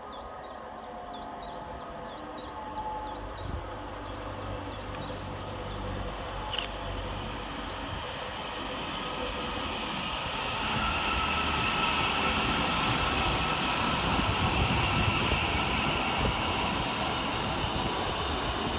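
Northern Class 331 electric multiple unit arriving, growing steadily louder as it runs in, with a rumble from the wheels on the rails and a steady whine over the last half. A single sharp click comes about six and a half seconds in.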